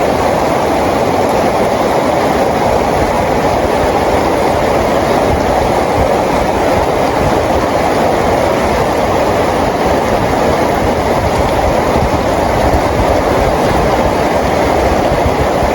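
Rain falling steadily: an even, unbroken wash of noise.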